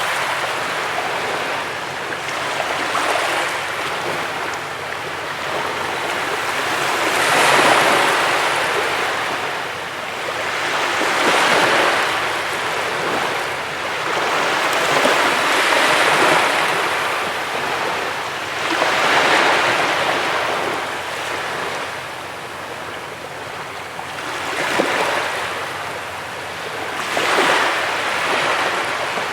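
Ocean waves breaking on a beach, a steady wash of surf that swells with each breaker about every four seconds.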